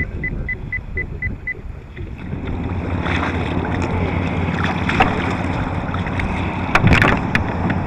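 Water sloshing and splashing against a fishing kayak while a big red drum is fought on the line. A few sharp splashes come near the end. In the first second and a half there is a quick, even run of short high ticks.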